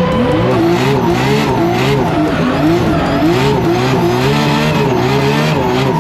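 Nissan Skyline R32's billet RB28 straight-six revving up and down in quick, repeated waves as the throttle is worked through a drift, with tyres squealing underneath.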